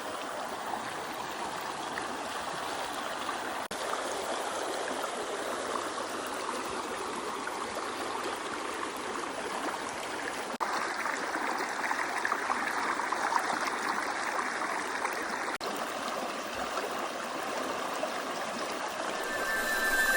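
Steady rush of flowing water, as of a stream, changing abruptly in tone about ten seconds in and again a few seconds later.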